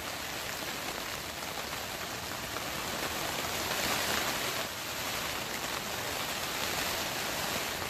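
Steady rain falling on a hoop greenhouse's plastic cover, an even hiss of drops that swells slightly about four seconds in.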